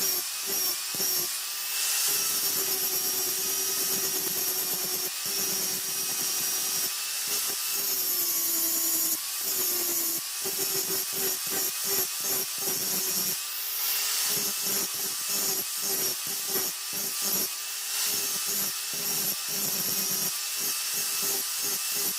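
An electric power tool's motor runs with a steady hum that sags slightly in pitch now and then under load. Over it is a hissing, abrasive rasp of the work pressed against it, broken into many short, quick strokes.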